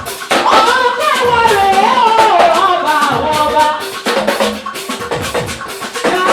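Gospel praise band music with drums and shaker percussion, and a wavering sung melody over the first few seconds.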